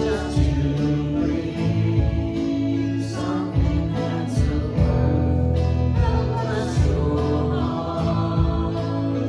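Live worship band music: guitar, bass and drums playing steadily, with voices singing.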